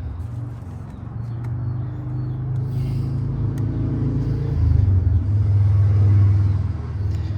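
Low, steady rumble of a running motor vehicle engine, growing louder about four and a half seconds in and easing near the end, with a few light clicks over it.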